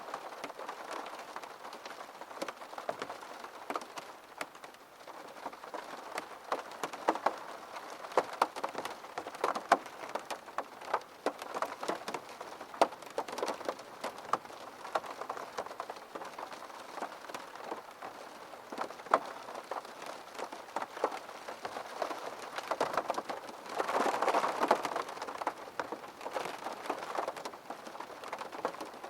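Rain pattering on a window pane: a steady hiss with many separate sharp drop taps, growing heavier for a couple of seconds about three-quarters of the way through.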